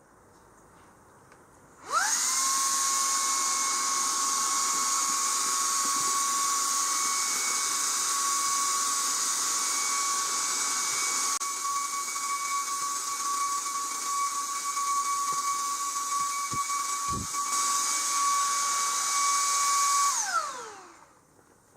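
Shark EVOPOWER W30 handheld vacuum switched on: its motor spins up with a rising whine to a high steady pitch over rushing air. It runs for about eighteen seconds, then winds down with a falling whine when switched off.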